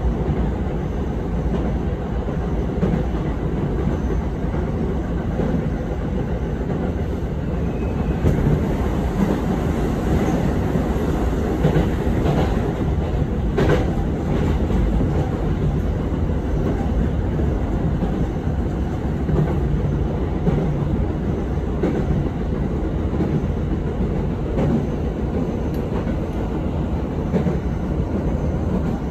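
Running noise of a commuter train heard from inside the car: a steady rumble of the wheels on the rails, with a brief sharper clack about halfway through.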